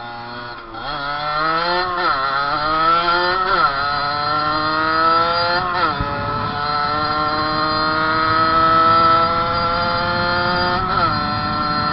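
Fantic 50 two-stroke moped engine at full throttle, climbing through the gears: the pitch rises, drops sharply at each shift about two, three and a half and six seconds in, then holds high and steady before another shift near the end.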